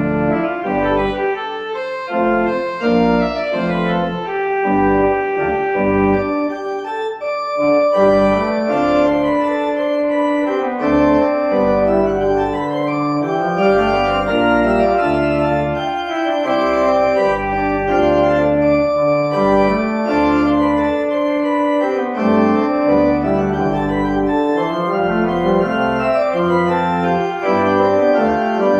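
Organ music: held chords over a bass line that moves from note to note.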